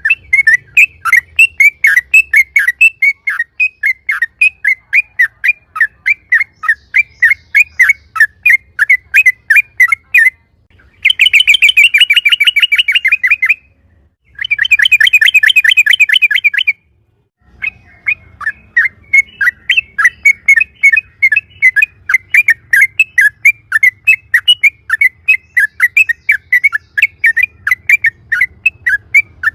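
Yellow-vented bulbul (trucukan) singing: a long series of quick repeated chirping notes, broken twice in the middle by a dense rapid trill lasting a couple of seconds each, the long 'ropel' run prized by bird keepers as a lure call.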